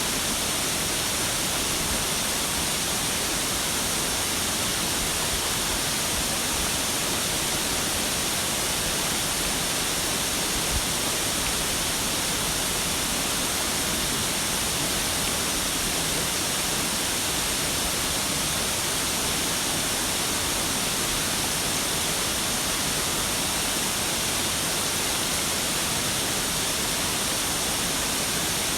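Waterfall with the steady, even rush of falling water.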